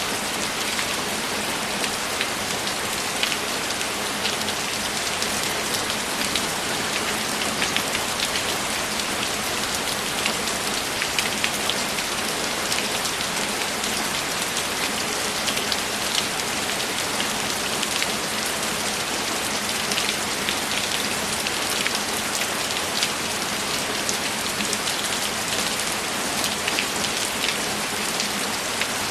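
Steady rain falling, a dense even hiss with many individual drops ticking sharply through it.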